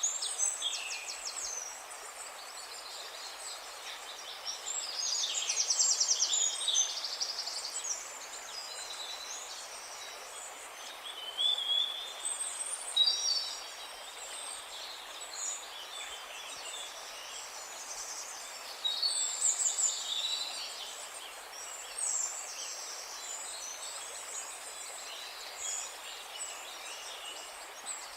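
Several songbirds singing and chirping over a steady soft hiss: a chorus of quick high trills and whistles that come and go, busiest about 5 to 7 seconds in and again near 19 to 21 seconds.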